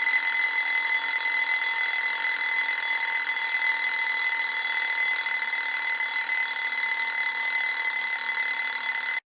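A mechanical bell ringing continuously without a break, a steady high-pitched metallic ring that cuts off suddenly near the end.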